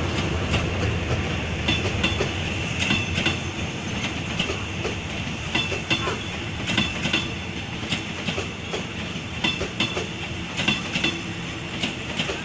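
Railway carriages rolling past, their wheels clicking over the rail joints in pairs of clicks about once a second over a steady rumble.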